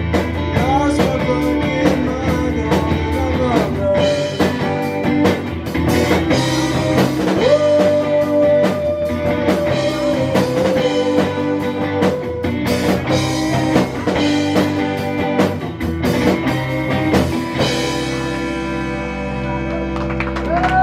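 Rock band playing live: electric guitar over a drum kit. About three-quarters of the way through, the drums stop and a held chord rings out as the song ends.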